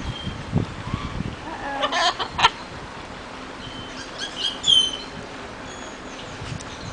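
Parrots giving short, harsh squawking calls, loudest about two seconds in and again around four to five seconds in, with a few thin whistled notes between.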